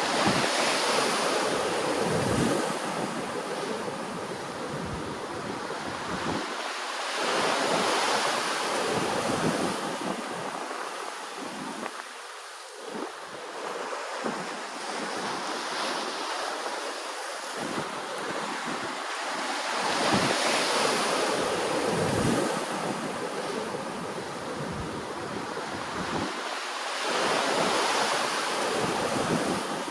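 Ocean waves washing ashore, a steady rushing wash that swells louder about four times as waves break, several seconds apart. Low wind rumble on the microphone comes and goes.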